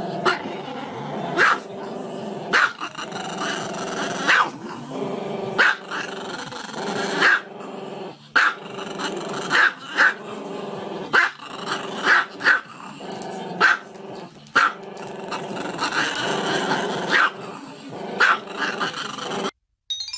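A dog growling steadily, with sharp barks breaking in roughly once a second; it stops abruptly near the end.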